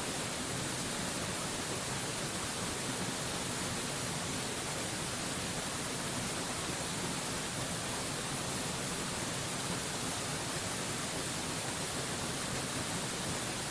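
A waterfall's steady rush of falling water: an even hiss that holds at one level throughout, with no splashes or changes standing out.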